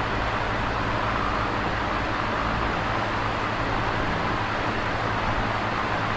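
Electric fan running steadily: a constant whoosh of moving air over a low motor hum.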